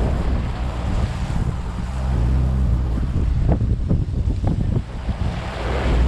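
Wind buffeting the microphone and sea wash over the steady low hum of a fishing boat's engine, with a few short knocks in the second half.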